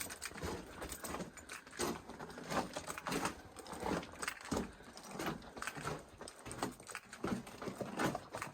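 Footsteps crunching on the rocky, gravelly floor of a mine drift at a steady walking pace, about three steps every two seconds, with a light rattle of carried gear.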